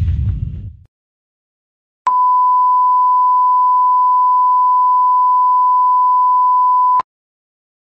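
A single steady high beep at one pitch lasting about five seconds and cutting off abruptly, the 1 kHz tone used as a censor bleep sound effect. Before it, the tail of a previous sound effect fades out in the first second.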